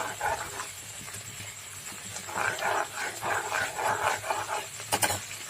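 An animal calling in two runs of short repeated calls, with a sharp click near the end.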